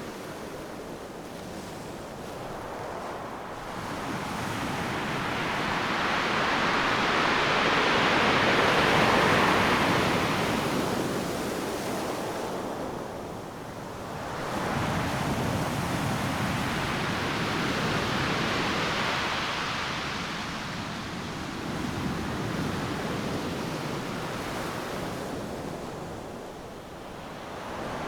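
Ocean surf: waves breaking and washing up the beach, a steady rushing hiss that swells and fades twice. The loudest surge comes about a third of the way in.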